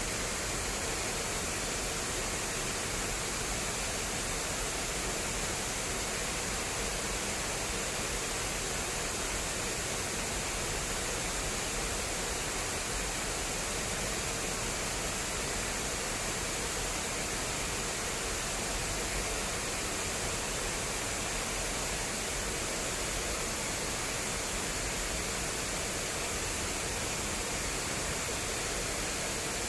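Fast-flowing water rushing steadily down an irrigation channel, an even hiss with no breaks.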